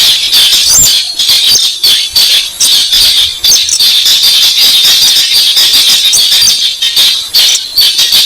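Recorded lure call of the weris bird, played loud: a continuous run of sharp, rapid, rattling high-pitched calls.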